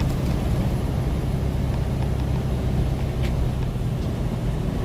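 Steady low drone of a semi-truck's engine and road noise, heard from inside the cab while driving.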